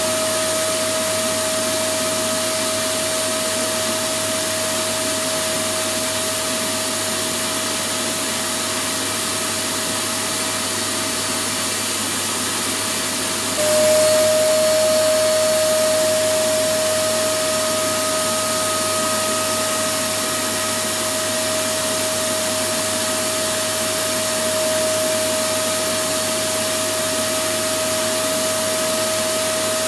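Electric vacuum cleaner motor running steadily: a constant high whine over a rush of air. About halfway through it jumps briefly louder and the whine dips slightly in pitch, then settles back.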